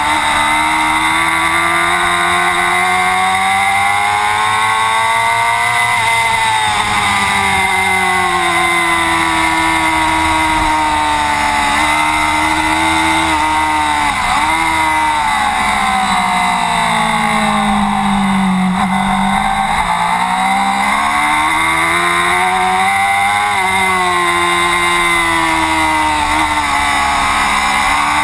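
Racing superbike engine at full race pace, the revs climbing and dropping repeatedly as it accelerates, shifts and slows for corners, with a quick dip about halfway through and the lowest revs a few seconds later.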